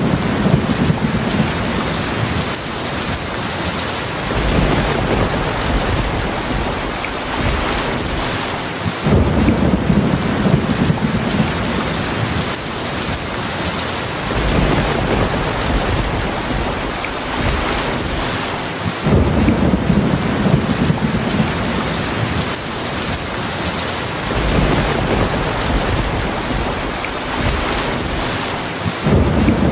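Heavy rain falling steadily, with low thunder rumbles that swell up about every five seconds.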